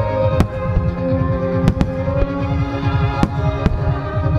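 Star mine fireworks display firing rapidly: a dense low rumble of shell launches and bursts, with a handful of sharp bangs, over music played along with the show.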